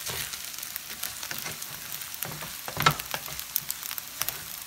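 Rice frying in a hot skillet, a steady sizzle, while a wooden spatula stirs and scrapes through it in short strokes. The sharpest scrape or knock comes near three seconds in.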